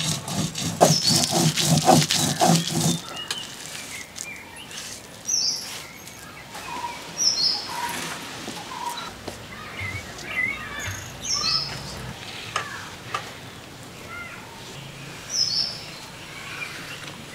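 Birds chirping: short high calls every one to three seconds, with softer, lower twitters between. A louder sound with a regular beat fills the first three seconds, then stops.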